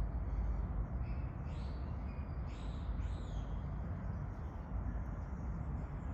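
A few short bird calls, three close together between about one and three seconds in, over a steady low rumble.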